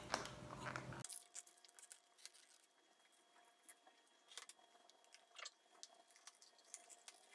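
Faint, scattered mouth clicks of someone chewing food, with near silence between them.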